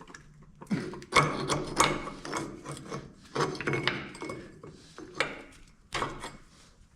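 A claw hammer working at the crankshaft pulley of a Minneapolis Moline ZA tractor engine to free it: irregular metal knocks and scraping, several strikes spread unevenly across the few seconds.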